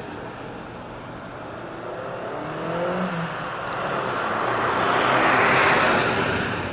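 A car passing by: its road noise builds slowly to a peak about five and a half seconds in, then fades.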